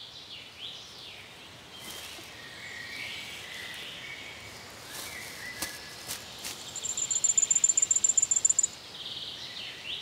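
Woodland birdsong: several birds calling, with a high, rapid trill of about ten notes a second lasting about two seconds past the middle, the loudest sound here.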